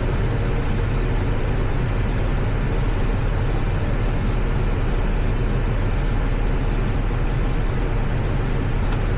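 Steady flight-deck noise of an Airbus A320 in flight on approach: an even rush of airflow and engine noise with a low hum underneath.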